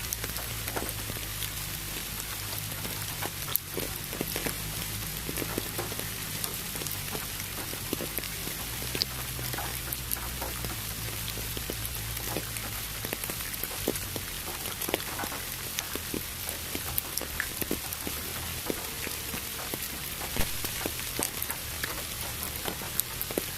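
Steady rain with many separate drops ticking and pattering, over a constant hiss of added pink noise, with a low steady hum underneath.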